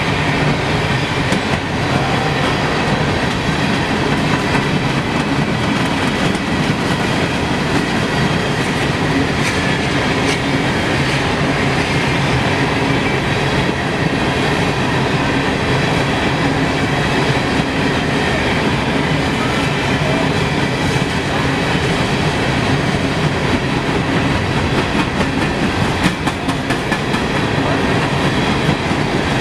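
Train rolling past close by, with steady wheel and rail clatter and a few sharp knocks near the end.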